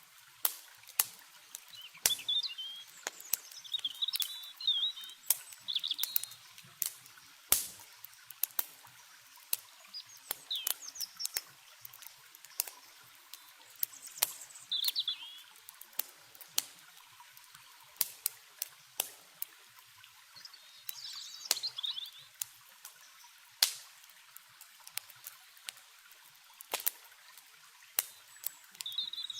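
Wood campfire crackling with frequent sharp, irregular pops, over a steady hiss of flowing river water, with birds chirping in short phrases every few seconds.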